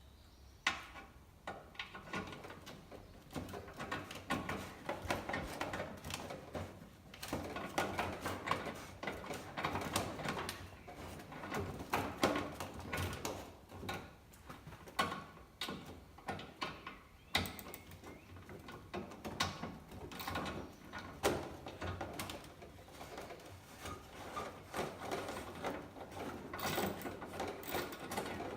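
Irregular clicking, knocking and clattering of hand tools and fasteners being worked on the rear of a car, with parts being handled and set down.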